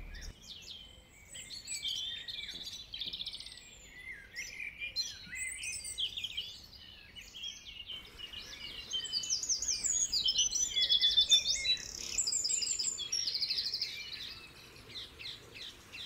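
Several songbirds singing at once, a busy chorus of quick chirps, trills and whistles, growing denser and louder about halfway through.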